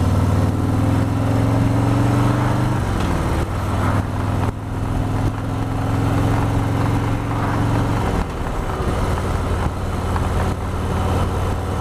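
Harley-Davidson Road Glide Ultra's Milwaukee-Eight V-twin running under way, climbing gently in pitch as it pulls. The pitch drops about three seconds in and again about eight seconds in.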